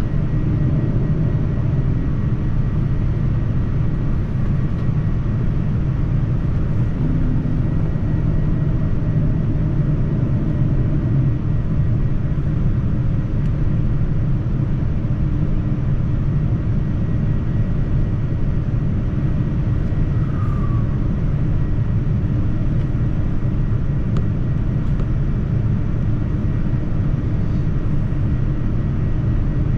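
Steady low rumble of airliner cabin noise in flight aboard a Boeing 787-9, the engine and airflow noise unchanging throughout.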